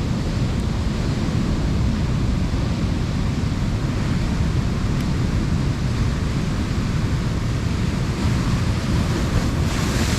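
Heavy ocean surf washing against shoreline rocks, a steady rush of water noise with wind buffeting the microphone. The surf swells a little near the end.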